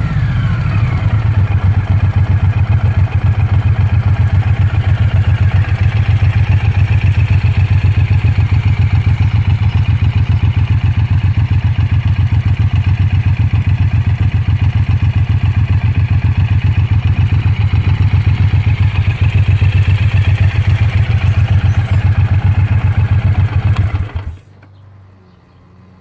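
Suzuki Intruder 1800's V-twin engine, heard through its exhaust, dropping back from a rev and then idling with a steady, fast pulse. About 24 seconds in it is switched off and the sound cuts out suddenly.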